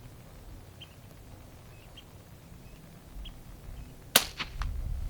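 A single sharp shot from an air rifle, about four seconds in, followed quickly by a couple of lighter clicks. Before it there is a quiet stretch with faint high chirps about once a second.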